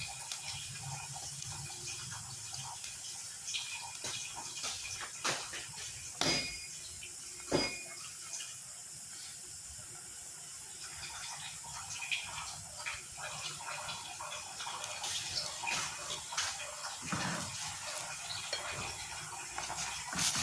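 A pot of chicken and banana heart in coconut milk boiling uncovered on high heat, a steady bubbling hiss as the broth reduces. A few sharp clinks, like a utensil against the pot, come near the middle.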